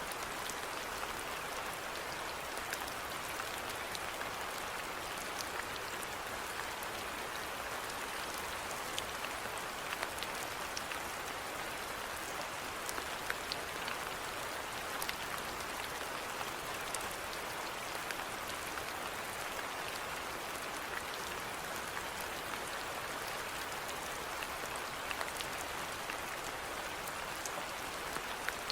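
Steady rainfall, a continuous hiss with many individual drops ticking on a surface.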